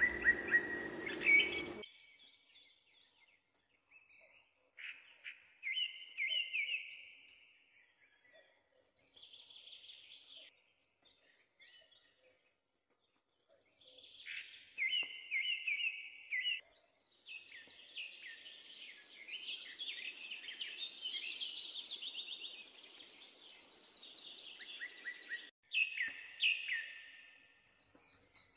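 Birds chirping and singing in short, repeated phrases with pauses between them, busiest in the second half. It starts with a brief noisy stretch with a low hum that cuts off suddenly about two seconds in.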